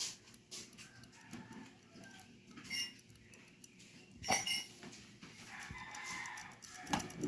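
Small metal clicks and taps from carburetor parts being handled, with faint chicken clucking in the background.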